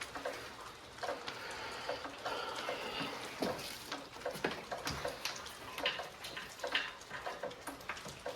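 Irregular light clicks and metal taps as a compression tester's hose fitting and tools knock against engine-bay parts while it is worked toward a spark plug hole.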